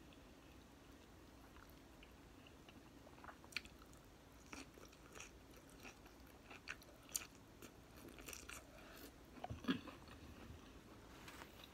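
Close-miked eating sounds: a person chewing finger-food from a seafood boil, with scattered wet clicks and smacks of the mouth starting about three seconds in, the loudest near the end.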